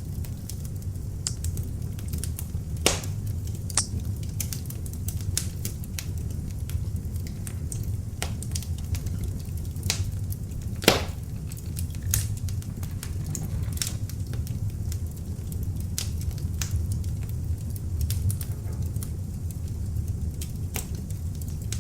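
Beech log fire in an open fireplace, burning with a steady low rumble and frequent sharp crackles. Two louder pops come about 3 and 11 seconds in.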